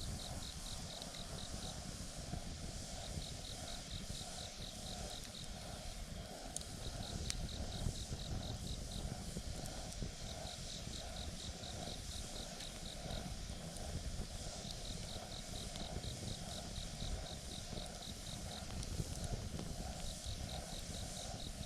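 Campfire burning with a low, steady rumble and a couple of sharp pops. Throughout, a faint high trill of about five pulses a second repeats in bursts of two to three seconds every four seconds or so.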